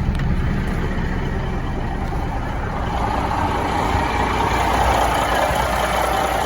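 Heavy diesel engine of a Peterbilt water truck running with a steady low rumble; about halfway through, a louder, higher noise builds over it.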